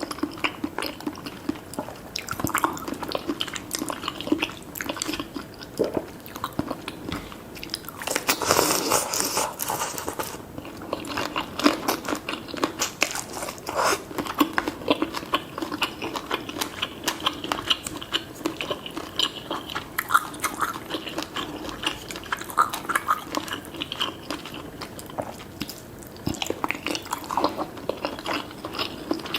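Close-miked eating sounds of a person chewing and biting a spicy seafood noodle soup with tofu, with many short wet clicks and smacks. A longer, louder rush of noise comes about eight seconds in.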